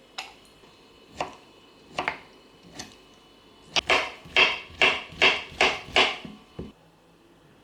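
A kitchen knife chopping fruit on a chopping board: a few spaced cuts, then a quicker run of about six cuts, roughly two or three a second, and one last cut.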